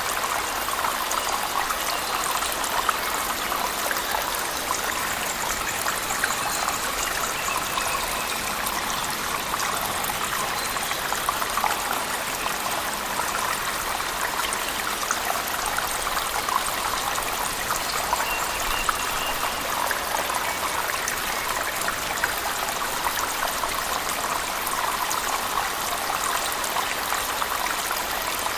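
Steady rush of falling water, a cave waterfall layered with heavy rain, dense with fine spattering drops.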